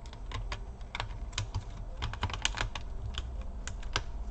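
Irregular sharp clicks and taps of a plastic laptop part being handled and fitted into the chassis, a quick run of them about two seconds in.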